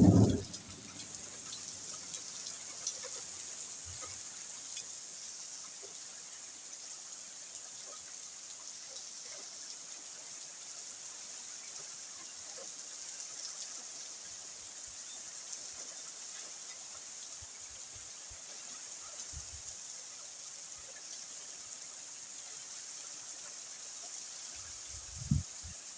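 Steady rain falling, an even hiss of drops. A loud low thump comes right at the start and a shorter one near the end.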